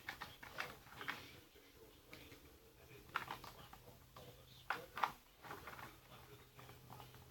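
Small plastic Lego pieces clicking and rattling as they are handled, with the loudest clicks about three and five seconds in. This is the handling of loading the little bomb pieces back into a Lego bomber.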